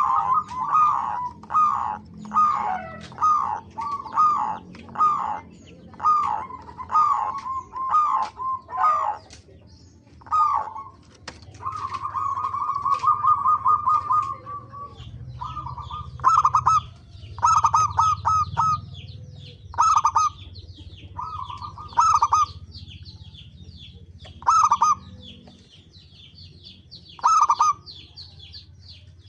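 Zebra dove (perkutut) cooing: quick runs of short, clipped notes, a longer rolling trill about twelve seconds in, then short separate bursts of notes every few seconds. Fainter high-pitched chirping of small birds runs beneath the later part.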